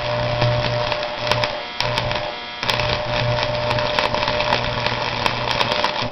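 Harbor Freight 110/115-volt stick (arc) welder striking an arc on a bolt tip: steady crackling and sputtering with a constant electrical buzz underneath. The arc breaks off briefly twice, about two seconds in, and then runs on until it stops at the end.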